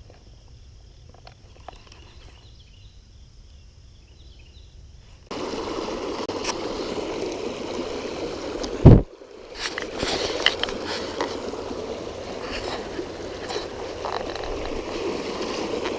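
Flowing river water, sloshing and gurgling, that comes in suddenly about five seconds in, with one loud low thump a little past the middle. Before it, only faint insect chirring.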